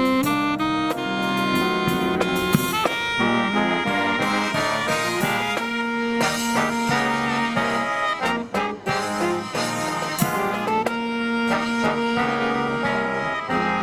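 Brass marching band playing a Christmas medley, with long held brass chords and moving melody lines.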